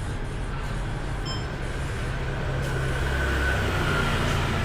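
Steady low rumble of street traffic and vehicle engines, with a faint high whine in the second half.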